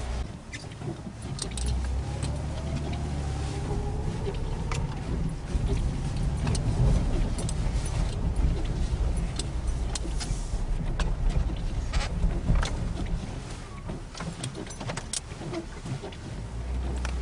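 Snowplow vehicle's engine working as it pushes snow. The engine note rises about two seconds in and then eases back, over a steady low rumble, with scattered sharp knocks and clatter.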